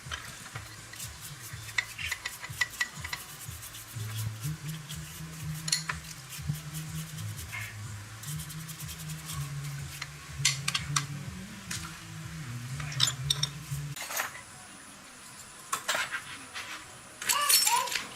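Hand tools and small metal parts clinking, tapping and scraping, with something being rubbed, during work on a motorbike. A low hum of changing pitch runs underneath and stops about three-quarters of the way through.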